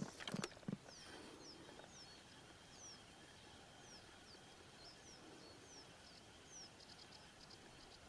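Faint bird calls: a series of short, quick falling chirps repeated roughly every half second to a second, joined near the end by a fast ticking trill. A couple of brief knocks come in the first second.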